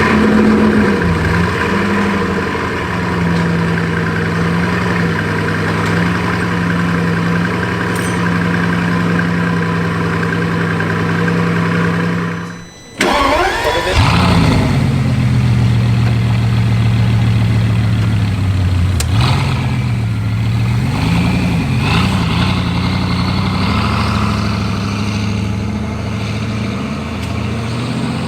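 Bugatti 8.0-litre quad-turbo W16 engine starting and settling into a steady idle. About halfway through, the sound cuts briefly and a second start-up follows: a quick rising note, then idle with a few light revs.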